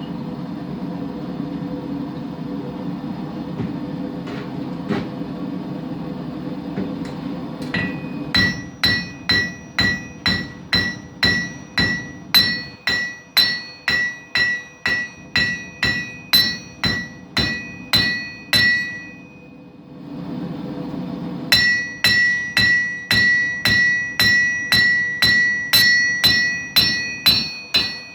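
Hammer blows on a hot knife blank over the anvil, forging the blade's bevel: about two strikes a second, each with a bright ringing anvil tone, in two runs separated by a short pause. Before the first run and in the pause, a steady low rushing noise, most likely the forge.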